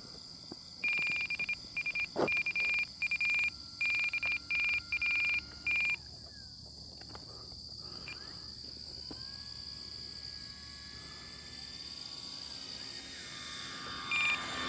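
Low-battery warning alarm beeping in short, irregular bursts, warning that the batteries are low; it stops about six seconds in and starts again near the end. Crickets chirp steadily underneath.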